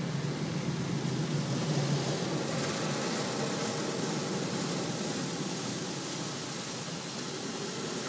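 Automatic car wash machinery working over the car, heard from inside the cabin as a steady washing rush with a low hum under it; the hissy top gets stronger about two and a half seconds in.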